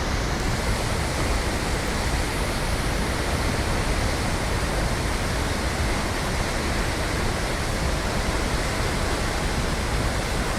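Flash flood of black water and debris rushing through a canyon: a steady, unbroken roar of water.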